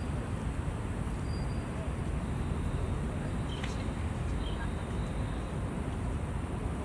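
Steady outdoor background rumble, heaviest in the low end, with a faint click a little past the middle.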